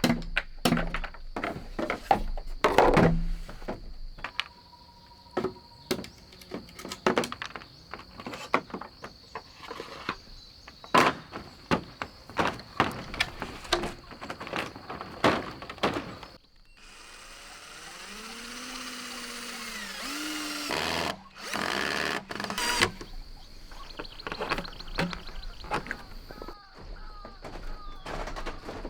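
Irregular sharp knocks of a blade chopping into bamboo. Partway through they stop for a few seconds of creaking, with squeals that rise and fall in pitch, and then the knocks resume.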